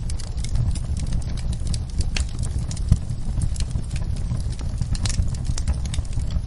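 Wood fire burning in a fireplace: a low steady rumble with frequent sharp crackles and pops, one louder pop about three seconds in.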